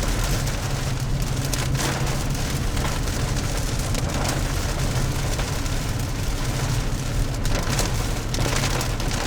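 Steady rain and wet road noise heard from inside a moving car, over a constant low drone from the engine and tyres.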